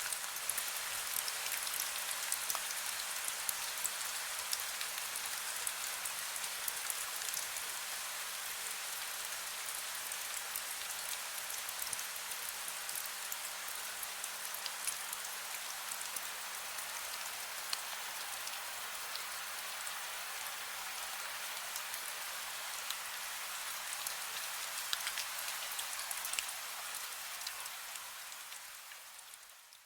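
Heavy rain falling steadily: a dense hiss scattered with many small drop ticks, with no thunder. It fades out over the last few seconds.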